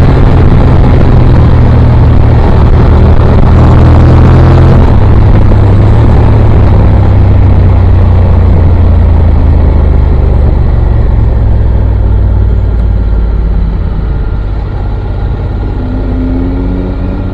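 Motorcycle ridden at speed, with a heavy wind rumble on the microphone over the engine. The rush eases over the last few seconds.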